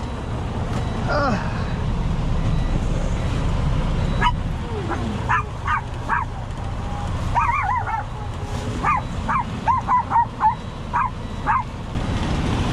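Small dog yipping and barking, a string of short high yips coming thick and fast in the second half, over a steady low rumble.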